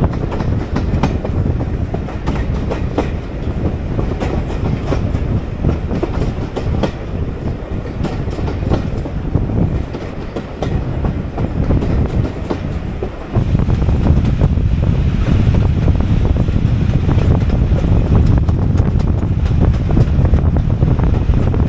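A heritage railway carriage running along the track, heard from an open window: a steady low rumble with an irregular clickety-clack of wheels over rail joints. The rumble steps up in loudness about halfway through.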